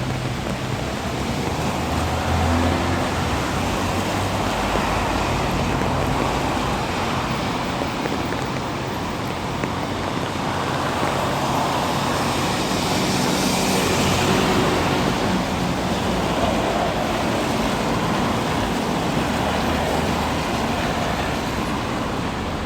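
Road traffic: a steady hiss with the low hum of engines, one vehicle passing loudest about halfway through.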